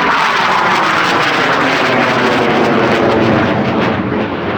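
Alenia Aermacchi M-346 Master jet trainer's twin turbofans, loud, passing by with the pitch falling steadily as it goes.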